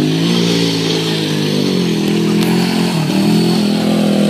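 Small off-road motorbike or quad engine running under changing throttle. Its pitch climbs at the start, holds, dips about three seconds in and rises again near the end.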